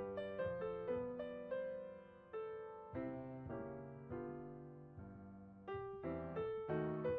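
Background piano music: gentle piano notes and chords, each note fading after it is struck.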